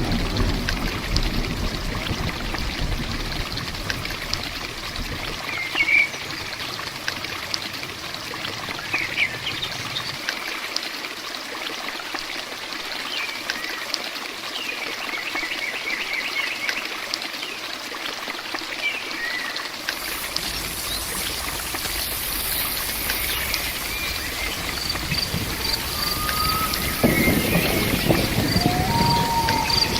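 Steady rain with trickling run-off, with a low rumble of thunder dying away in the first few seconds. Birds chirp now and then through the middle, and about two-thirds of the way in a high insect hiss joins, with crickets chirping in an even pulse near the end.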